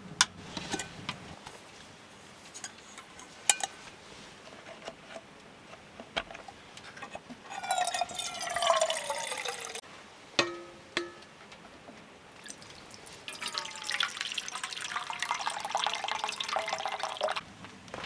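Two descending trilled calls, each a couple of seconds long and made of rapid pulses sliding down in pitch, the second longer; a 'tiriri'-like electronic-sounding trill whose source is unknown. Scattered sharp clicks and ticks fall between them.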